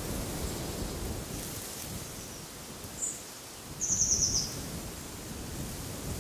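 A songbird gives a single brief high chirp about three seconds in, then a rapid, slightly falling trill of high notes lasting under a second. Wind and rustling make a steady rumbling hiss underneath.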